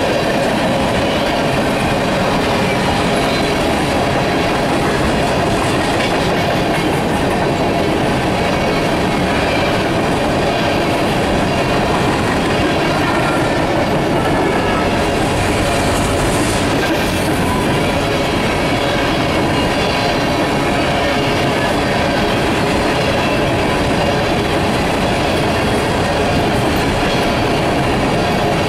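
Empty steel coal gondolas of a unit freight train rolling past, their wheels on the rails making a steady, loud rumble and rattle.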